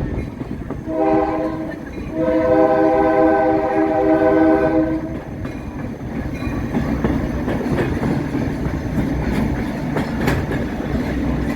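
Diesel locomotive air horn, heard close from the open coach right behind an EMD F40PHM-2: a short blast about a second in, then a long blast of about three seconds. After the horn comes the steady rumble of the moving train, with wheels clacking on the rails.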